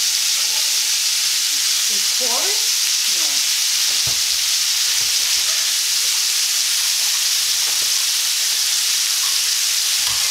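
Chicken cutlet strips sizzling steadily in hot olive oil in a frying pan.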